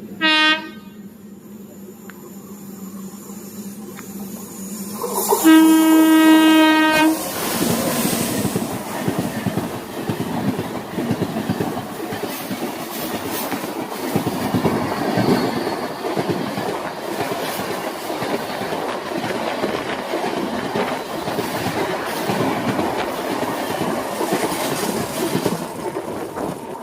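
Train horn: a brief note at the start, then one loud blast of about two seconds as the train draws near. The train then passes with a steady rumble and clatter of wheels on the rails.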